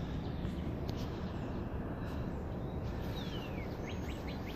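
Outdoor ambience with a steady low rumble. A songbird calls about three seconds in: one high note sliding downward, then a quick run of short chirps, about five a second.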